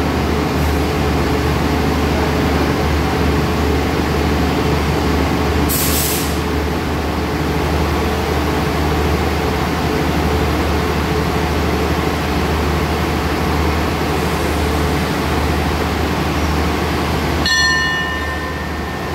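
A standing diesel passenger train idles with a steady low hum. About six seconds in there is a short hiss of air, and near the end a bell is struck.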